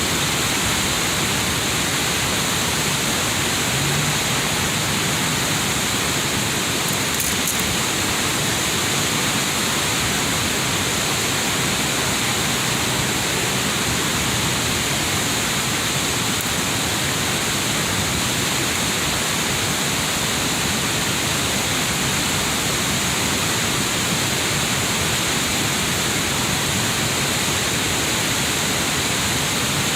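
River waterfall: water pouring and rushing in a steady, unbroken roar.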